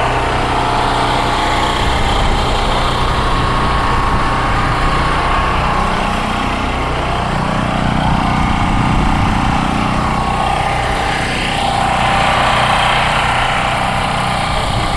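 A car engine running steadily, its sound swelling for a few seconds in the middle and shifting in pitch near the end.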